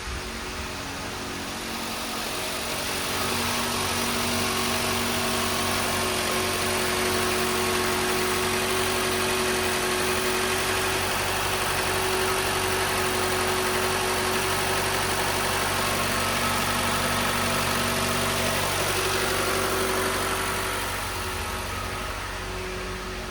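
2015 Mitsubishi Lancer's 2.4-litre four-cylinder engine running steadily, with no revving. It is louder from about three seconds in until shortly before the end.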